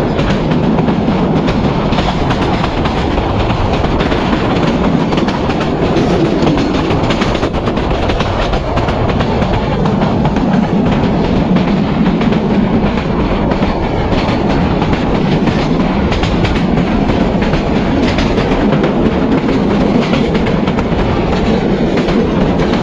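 PT INKA-built intercity passenger coaches running at speed: a steady rumble of wheels on rail with the clickety-clack of rail joints, heard from an open carriage window.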